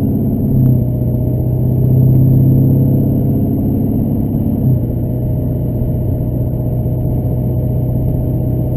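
Chevrolet Duramax LB7 6.6-litre turbo-diesel V8 and road noise heard from inside the pickup's cab while driving: a steady low drone that swells for a second or two about two seconds in and settles again near five seconds.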